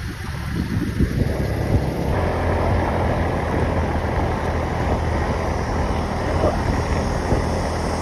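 A motor engine running steadily, with wind rushing over the microphone as it moves.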